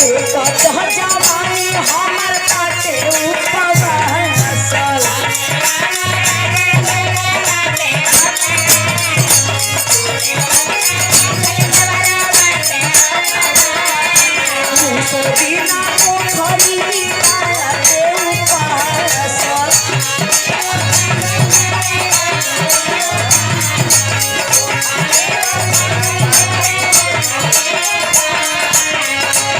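Bhojpuri Birha folk music played live: a repeating low drum beat under a steady fast rattling percussion and a melody line.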